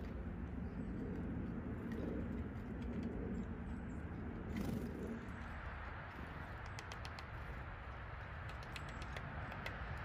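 Birds calling at a wire-cage suet feeder, with low-pitched calls through the first half that stop about five seconds in. After that, a downy woodpecker's light sharp taps as it pecks suet through the wire mesh.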